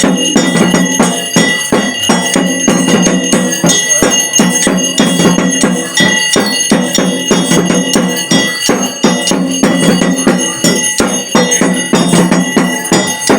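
Bells ringing rapidly and without pause, with a dense beat of struck percussion: the music of a Pahadi devta ritual in which a deity is invoked.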